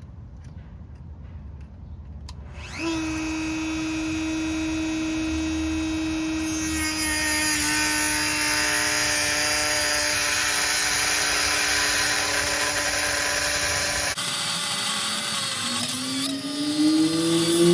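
Dremel rotary tool with a cutting wheel starting up about three seconds in and running at a steady high whine. From about six seconds a harsh grinding hiss joins it as the wheel cuts into a rusted, seized exhaust-manifold nut. Near the end the pitch rises and then dips.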